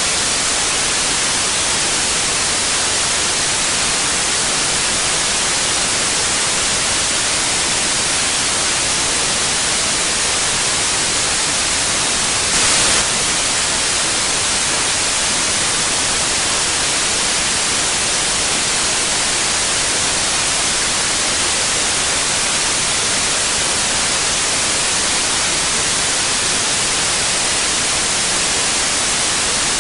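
Steady white noise: an even, bright hiss with no change in character, apart from a brief, slightly louder patch about thirteen seconds in.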